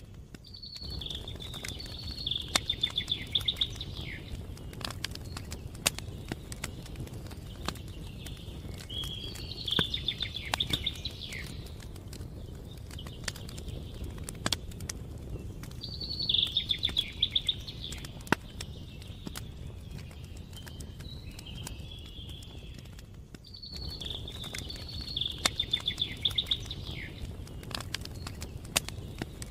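A songbird sings a short, rapidly trilled phrase four times, about every seven seconds, over the irregular crackles and pops of a campfire and a steady low rumble.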